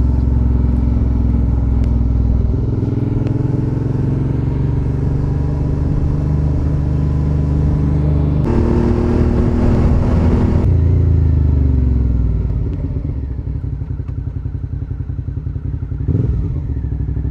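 Suzuki V-Strom 650XT's V-twin engine running as the bike is ridden, its note shifting about two and a half seconds in. It gets louder and brighter for a couple of seconds around the middle, then eases off and quietens near the end.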